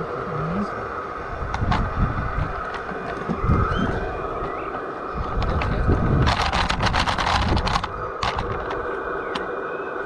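A G-scale garden railway model train running: a steady motor and gear whine, with a quick run of rapid clicking about six seconds in that lasts under two seconds.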